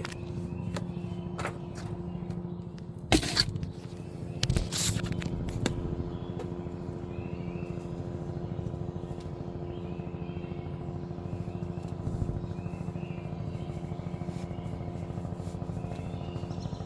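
News helicopter hovering overhead: a steady drone from the engine and rotor with a fast, even chop from the blades. A few sharp knocks and rustles come between about three and six seconds in.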